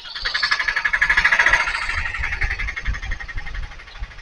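A rapid, evenly pulsing animal trill, high-pitched, swelling for a second or so and then fading out near the end, over a low rumble of wind on the microphone.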